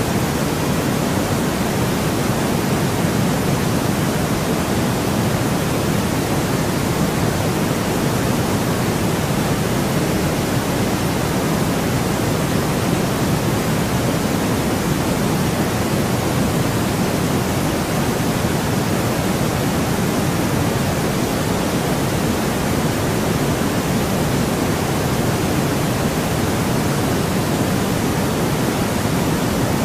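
Steady white noise: an even, unchanging hiss, fuller in the lower tones, with no breaks.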